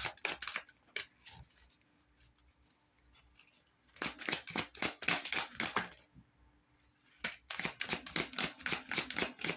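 A deck of oracle cards being shuffled by hand: three spells of rapid card clicks with short pauses between.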